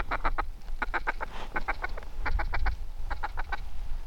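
Mallard quacking in quick runs of four or five quacks, five runs in a row at an even pace, over a low rumble.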